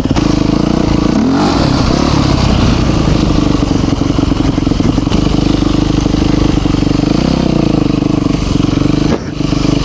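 Yamaha YZ450 dirt bike's four-stroke single-cylinder engine running under way, with pitch changes about a second in and again around seven seconds, and a brief drop in engine sound near the end.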